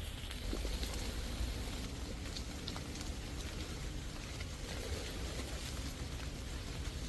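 Heavy rain falling on forest leaves and the ground: a steady hiss with scattered sharp drip ticks over a low rumble.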